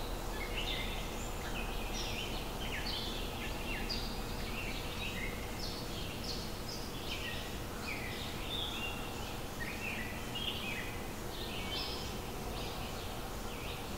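Small birds chirping and twittering in many quick, short calls, overlapping one another, over steady low background noise.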